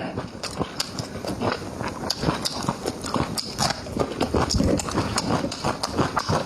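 Close-miked chewing and lip-smacking: a dense run of wet mouth clicks while eating.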